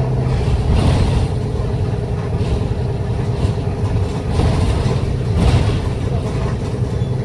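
Route bus driving, heard from inside the cabin: steady engine hum and road noise, with occasional brief rattles.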